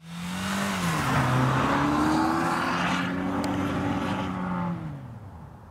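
2013 Dodge Dart's 1.4-litre turbocharged engine revving hard as the car is driven through snow, over a steady hiss of tyres throwing up snow. The engine note drops about a second in, climbs and holds, then falls away and fades out near the end.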